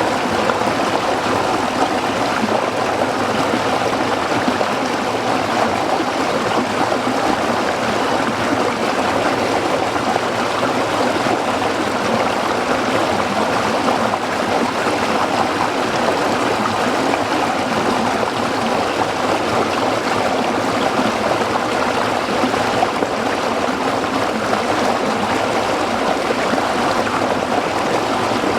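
Stream water flowing and splashing over rocks, a steady burbling rush.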